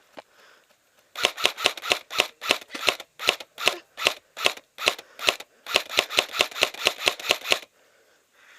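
Airsoft rifle firing a quick string of about twenty single shots, roughly three a second, with a short break about halfway: suppressing fire on a sniper.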